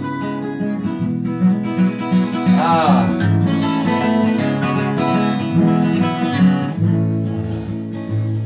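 Live acoustic folk music with no singing: strummed acoustic guitar carrying an instrumental break, with a brief sliding, wavering high sound about three seconds in.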